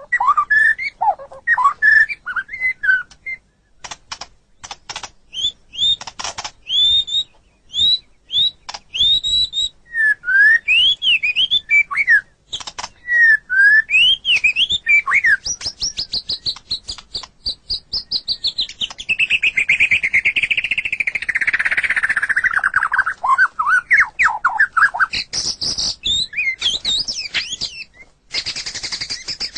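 White-rumped shama (murai batu) singing a varied song of loud, clear whistled notes that sweep up and down, mixed with sharp chirps. Past the middle it runs into a long, fast trill that slides down in pitch before breaking back into separate whistles.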